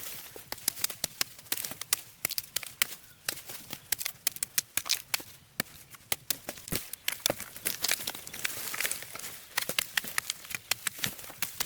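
Dense, irregular sharp clicks and knocks, several a second.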